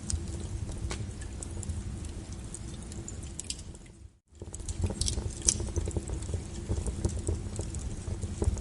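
Wood fire crackling, with irregular sharp pops and snaps over a low rumble of burning logs. About four seconds in, the sound dips away almost to nothing for an instant and then returns.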